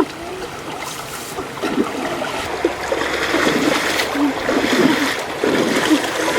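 Water splashing and sloshing, with irregular small splashes over a running-water hiss.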